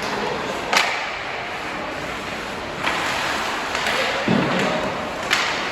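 Ballfield ambience: a steady rushing noise with faint distant voices, broken by two sharp knocks, about a second in and again near the end.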